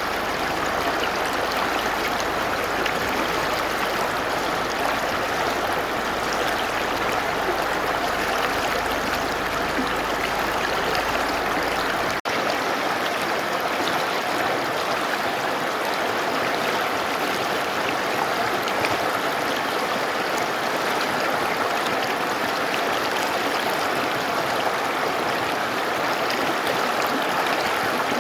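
Mountain river rushing steadily over rocks, an even water noise throughout. A momentary break comes about twelve seconds in, after which the deep low rumble drops away.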